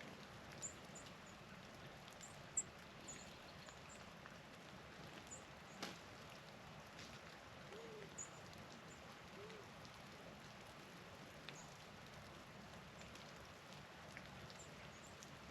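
Faint, scattered high chip notes from small songbirds over a soft steady hiss, with a few sharp ticks, one near the middle the loudest, and two short low notes a little after it.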